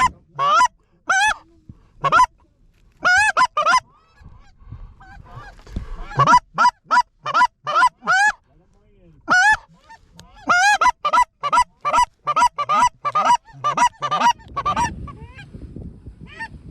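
Goose call blown in runs of quick honks and clucks, each note breaking from a low tone up to a higher one, with short pauses between the runs.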